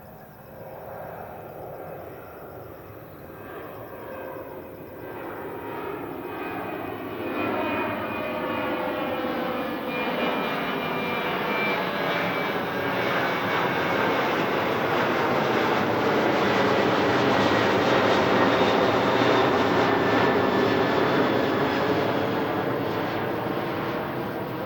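Boeing 737-800 jet airliner climbing out on takeoff. The roar of its twin turbofans builds steadily to a peak about three-quarters of the way through, with engine tones sliding slowly lower as it passes, then eases slightly near the end.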